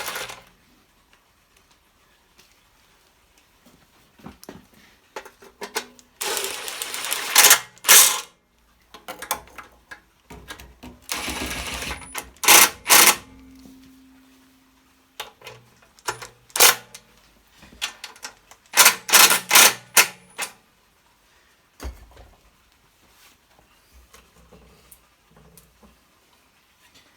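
Hand tools and metal engine parts: irregular bursts of clatter and runs of rapid clicking as a small engine's case is fitted back on and fastened, with quiet gaps between.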